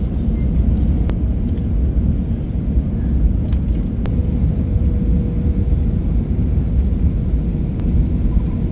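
Steady low rumble inside an airliner's cabin during landing, with a faint steady hum above it and a couple of faint clicks.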